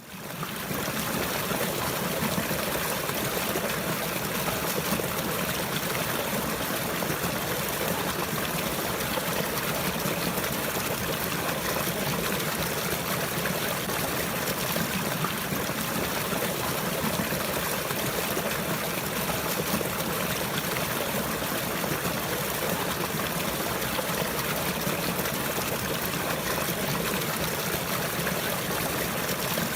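Steady running water, a trickling stream, flowing evenly throughout after a brief fade-in at the very start.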